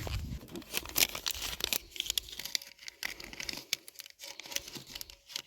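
Paper crinkling and rustling in the hands, with irregular sharp crackles: a dollar bill being folded and handled.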